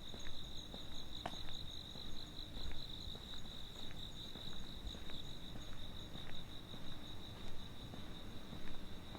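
Crickets trilling in a continuous, high-pitched, steady chorus with a slight pulsing, over a faint low background hum.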